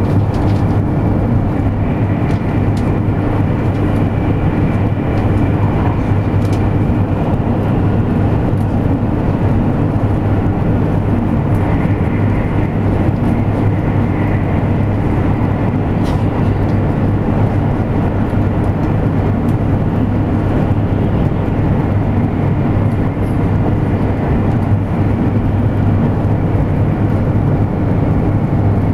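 Interior running noise of a 200 Series Shinkansen heard from inside the passenger car: a steady rumble with a constant low hum.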